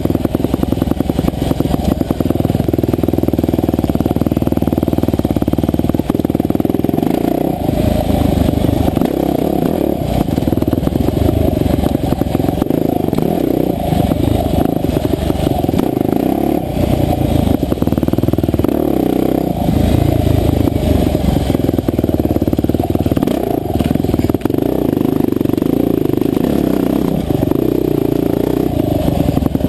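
Husqvarna TE511 enduro dirt bike's single-cylinder four-stroke engine running hard on a trail, its revs rising and falling throughout with the throttle.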